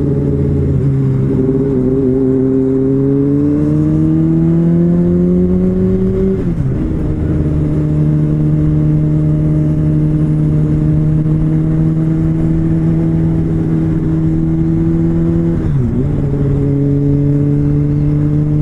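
Honda CBR600RR inline-four engine pulling on the freeway. Its note climbs for a few seconds, drops sharply about six and a half seconds in as it shifts up, then holds steady at cruising speed, with another brief dip near the end.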